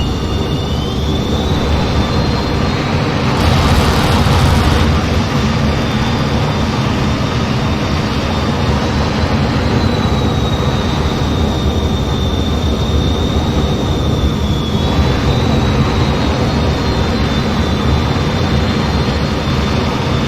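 Steady jet engine and airflow noise inside an F-15 fighter's cockpit in flight, with a steady high whine over it. The hiss rises briefly about four seconds in.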